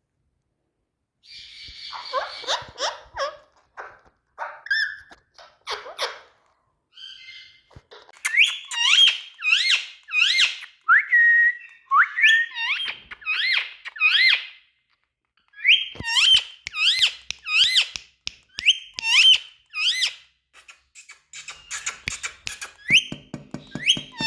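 Indian ringneck parrot calling: a few harsher chattering calls at first, then a long run of short whistled chirps that rise and fall, about two a second, with brief pauses.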